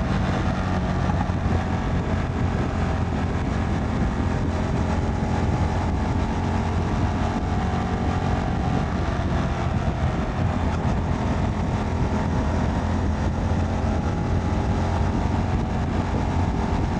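Motorcycle engine running steadily at an even, low speed with no revving, most likely the rider's own CFMoto 300NK single-cylinder.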